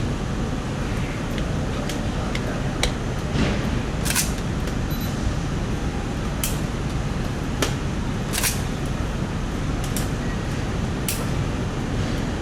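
Camera shutters clicking, about a dozen sharp single clicks at irregular intervals, over a steady background of noise.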